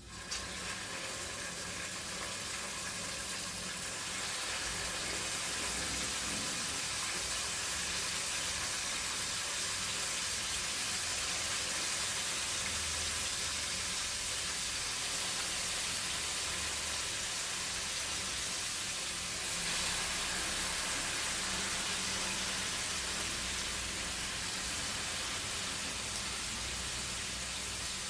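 Chicken liver frying in hot cooking oil in a pan: a steady sizzle that starts suddenly and holds at an even level throughout.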